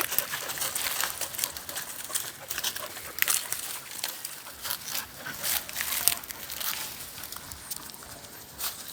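Irregular crunching and crackling of dry leaves and twigs underfoot as dogs and people move through forest undergrowth.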